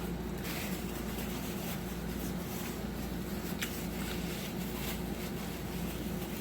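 Faint, soft chewing and mouth sounds of someone eating, over a steady low hum.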